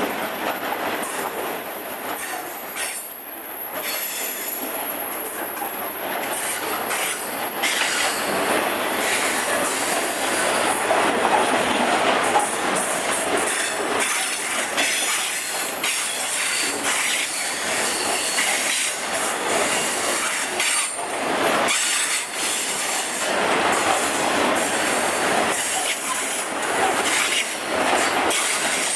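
Train running along the track, a steady rail noise broken by frequent short clicks of wheels over the rails. A thin, very high whine sounds for the first seven or so seconds, then stops.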